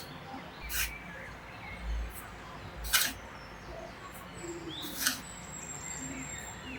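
Small birds chirping in the background, with a short, sharp noise about every two seconds, four in all.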